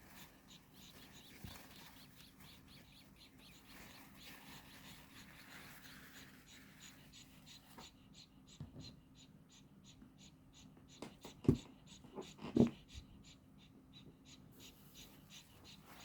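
Baby birds cheeping in a steady run of short high peeps, about two or three a second. Two dull knocks stand out loudest partway through.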